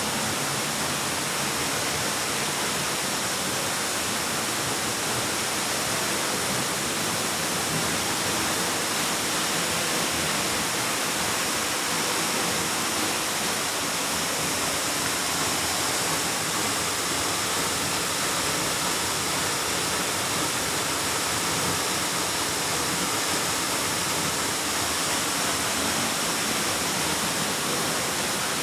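Waterfall pouring steadily into a rock cave, a constant rushing of falling water with a strong hiss in the highs.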